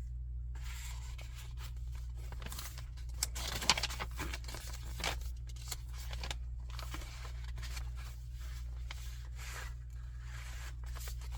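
Paper rustling and brushing as the pages and card stock of a handmade junk journal are turned and handled, in irregular bursts with a sharper rustle about three and a half seconds in. A steady low hum runs underneath.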